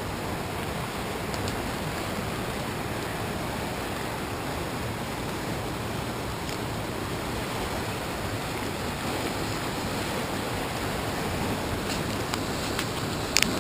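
Small waterfall pouring steadily: an even rush of falling water, with a few short clicks near the end.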